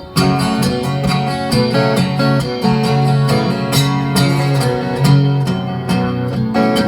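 Acoustic guitar playing the instrumental introduction of a folk song, plucked and strummed chords starting suddenly at the beginning.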